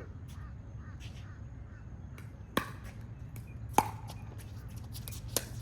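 Pickleball paddles striking the plastic ball in a rally: three sharp pops about a second and a half apart, with a few fainter taps between them.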